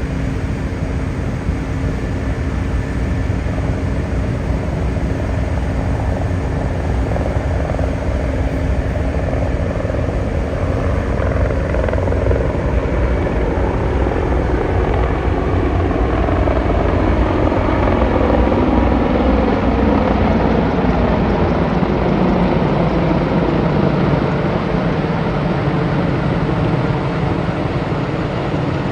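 Aircraft engine noise from a low-flying display aircraft: a loud, continuous rumble whose pitch falls slowly through the second half as the aircraft passes.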